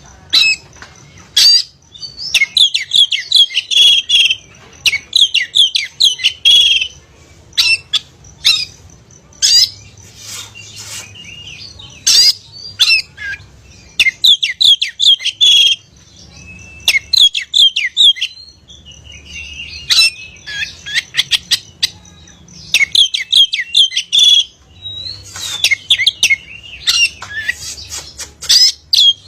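Oriental magpie-robin (kacer) singing loudly: runs of rapid, chattering whistled notes lasting a second or two each, separated by short pauses.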